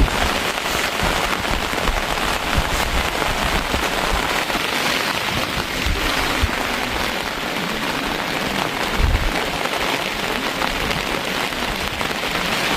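Steady rain falling, an even hiss of raindrops on surfaces.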